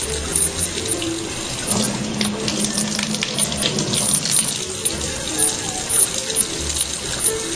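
Water running steadily from a faucet into a sink, splashing as a cat drinks with its head under the stream.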